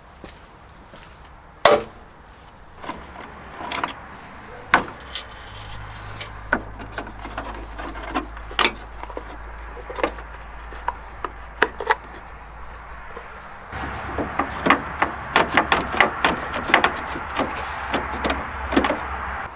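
Scattered sharp clicks and knocks of hand tools and loosened parts during headlight removal. About fourteen seconds in, a denser, louder run of quick clicks begins, over a low hum.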